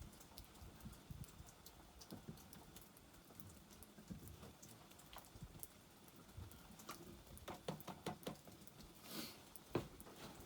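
Faint, irregular crackling and snapping of a small wood campfire, the clicks growing busier in the last few seconds with a brief hiss near the end.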